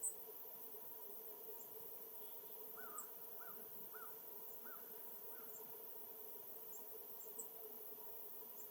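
A bird calling in the distance: a series of five short, arched notes about half a second apart in the middle, with a few faint high ticks scattered through, the sharpest right at the start.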